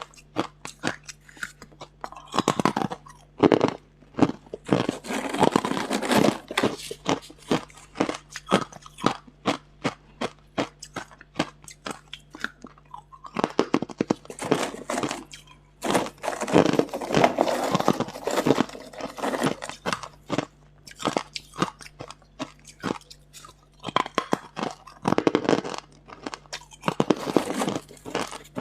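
Hard ice being bitten and chewed close to the microphone: rapid sharp cracks and crunches, with denser spells of grinding chews between runs of separate bites.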